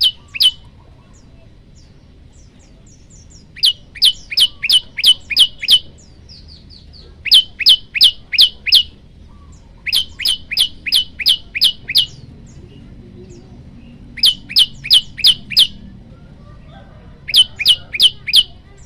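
Male olive-backed tailorbird singing: loud, sharp, high notes given in repeated bouts of about five to seven at roughly three a second, with pauses of a second or two between bouts. This is its loud song, used to call a female.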